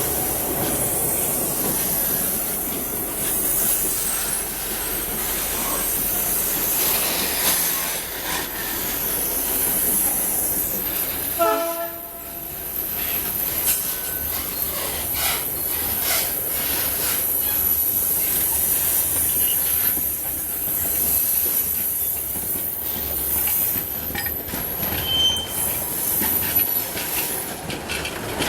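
Ballast work train running on the rails, its wheels rumbling and clattering with a thin high-pitched squeal. About twelve seconds in, a short pitched horn-like blast sounds.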